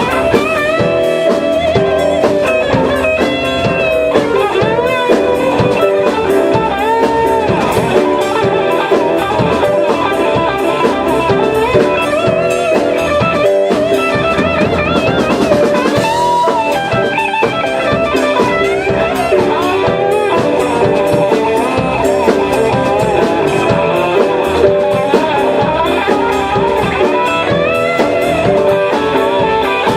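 Rock music instrumental passage: a lead electric guitar playing a bending solo over bass and a drum kit keeping a steady beat.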